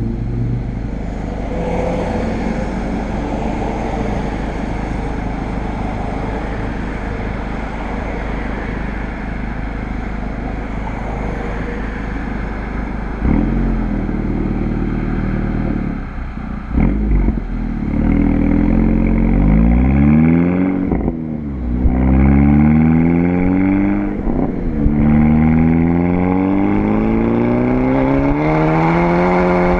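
Volkswagen GTI with an APR turboback exhaust and K04 turbo, its engine running steadily at first. About halfway through it revs up hard, the pitch climbing and dropping back several times as it accelerates through the gears.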